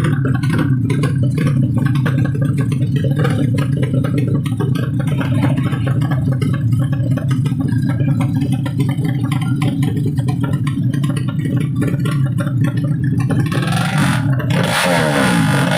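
Motorcycle engine running steadily with a dense low rumble and some clatter. Near the end it gives way to music.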